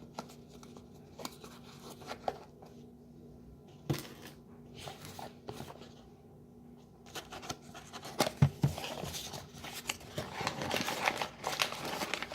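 Packaging being handled: scattered clicks and taps, then plastic crinkling and rustling that grows busier from about eight seconds in.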